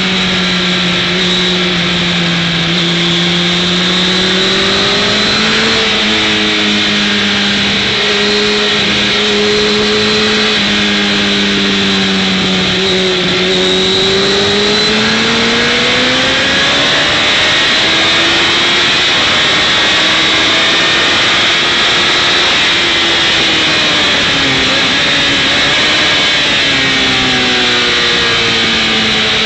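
Motorcycle engine running hard on a race track, its pitch rising and falling smoothly over several seconds at a time as the throttle opens and closes through corners. A steady rushing noise runs under the engine.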